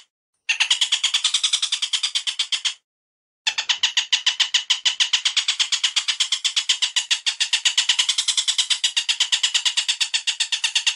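Recorded bird calls played back as a songbird training track: a rapid, even chattering of sharp notes, about eight a second. The track drops to dead silence twice for under a second, once at the start and once about three seconds in.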